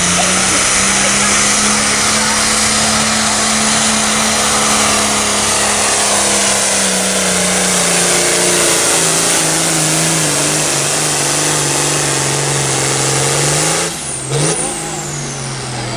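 A pulling tractor's engine running flat out with a loud, rough roar. Its pitch rises a little at first, then sinks steadily over about twelve seconds as the engine labours under load. About fourteen seconds in the throttle is cut and the sound drops away sharply, followed by one brief blip of revs.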